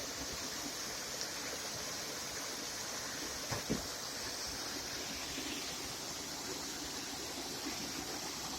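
Steady rush of flowing water, an even hiss with no changes, broken by two brief soft knocks a little before the middle.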